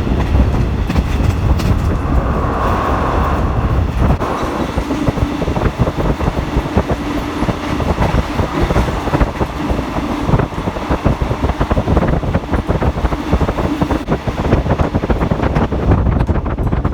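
Passenger train running along the track, heard from on board: a steady rumble with irregular rattling and wheel clatter.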